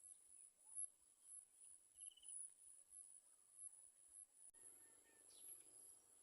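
Faint, steady high-pitched trilling of insects, with a few faint bird chirps in the last second or so.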